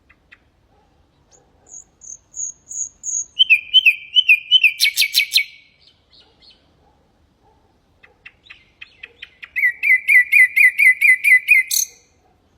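Common nightingale singing two phrases. The first runs through a series of high whistled notes, then faster repeated lower notes, ending in a short dry rattle. After a pause of about two seconds, soft ticks quicken into a fast, loud run of repeated notes that ends on a sharp upward note.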